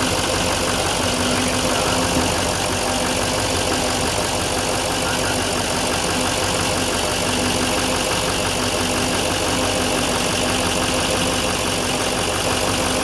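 2016 Chevrolet Silverado 2500's 6.6-litre Duramax V8 turbo-diesel engine idling steadily.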